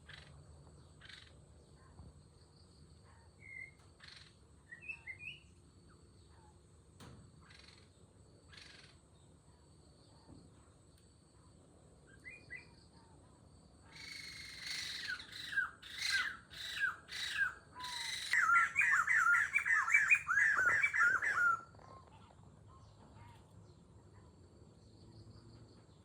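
Birds calling in the open: scattered short chirps, then a loud stretch of about eight seconds of rapid, repeated squawking calls mixed with noisy rustling, which stops suddenly.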